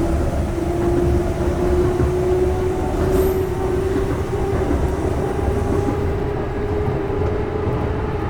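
Train running, heard from inside the car: a steady low rumble with a whine slowly rising in pitch.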